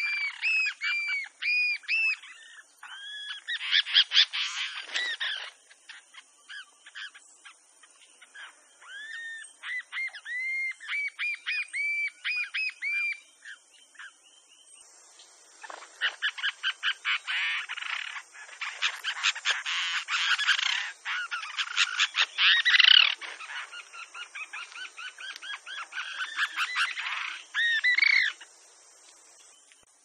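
Bronzy jacamar (Galbula leucogastra) singing: series of high, short notes that rise and fall in pitch, several a second, breaking into faster, denser runs of notes in the middle, with a few loud notes near the end.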